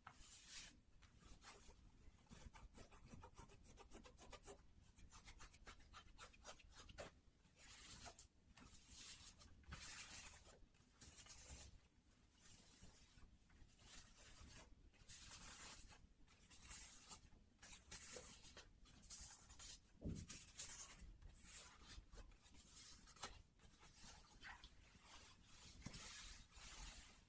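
Faint, close-miked rubbing and scratching on white cotton socks, in short scratchy strokes repeated irregularly throughout.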